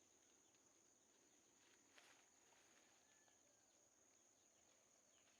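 Near silence, with a faint, steady, high-pitched insect drone and one brief click about two seconds in.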